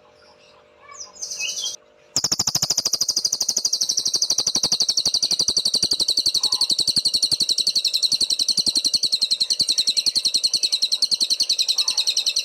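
A cililin songbird singing: a few brief high chirps, then about two seconds in a long, very rapid, even trill that goes on without a break.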